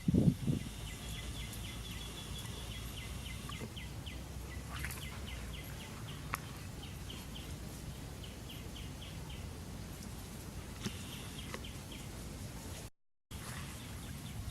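Outdoor ambience: a steady low rumble with several short runs of quick, high chirping, like small birds calling. A few dull low thumps sound at the very start, and the sound cuts out for a moment near the end.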